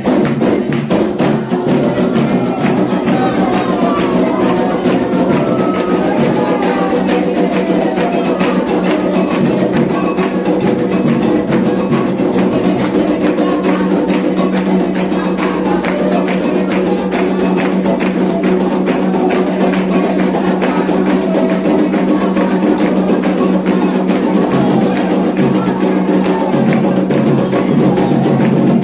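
Candomblé drumming: atabaque hand drums playing a steady, dense rhythm for the orixá Oxossi, with sharp, clicking struck percussion keeping time.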